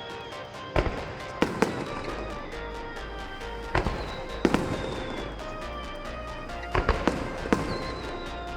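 Fireworks display: aerial shells bursting with sharp bangs, about eight of them at uneven intervals, over music played for the show.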